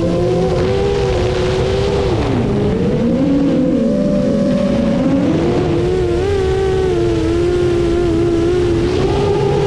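FPV drone's brushless motors and propellers whining, the pitch sliding down for a couple of seconds as the throttle eases off about two seconds in, then climbing back and holding steady.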